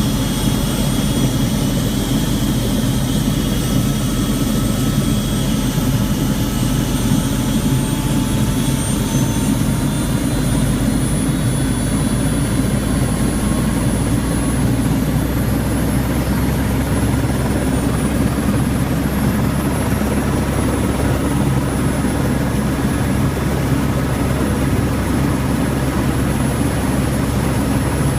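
Helicopter in flight: steady rotor and engine noise with a thin high whine that wavers slightly in pitch.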